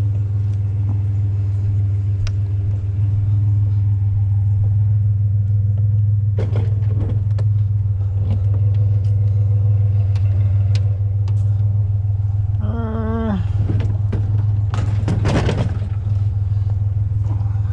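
Truck engine idling steadily with a low hum, while scrap is handled nearby: scattered knocks and clatter, loudest about two-thirds of the way in and again near the end.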